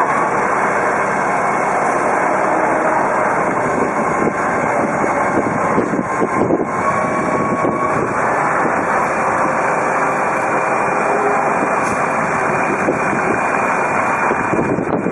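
Heavy vehicle engine running loudly and steadily, a dense mechanical noise with a faint steady whine over it.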